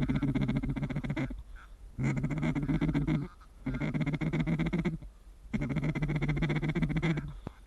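Duck call blown in long runs of fast, raspy chatter, a mallard-style feeding call used to draw ducks in. There are four runs, each cut off sharply, with short pauses between.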